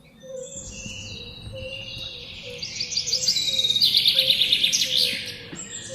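Birds chirping, building into a loud rapid trill about three seconds in that fades away about a second before the end.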